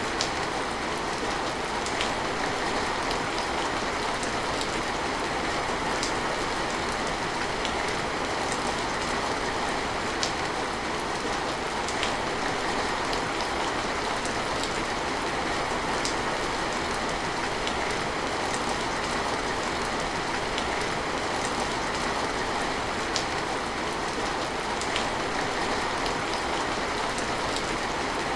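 Steady rain falling, an even patter, with individual drops ticking sharply close by every second or two.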